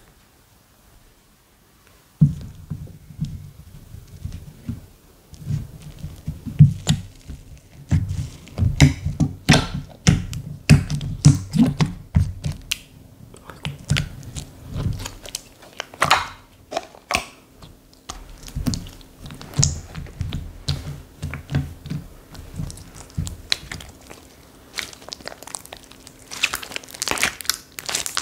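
Hands squishing and pressing slime, making irregular sticky pops and clicks over soft low thuds. It is quiet for the first two seconds before the handling starts.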